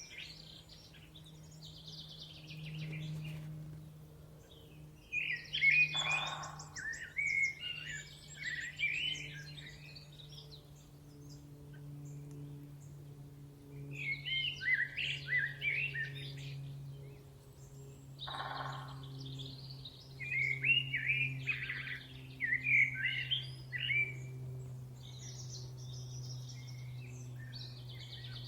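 Songbirds singing in bouts of quick, varied chirping phrases, with short pauses between bouts, over a steady low hum.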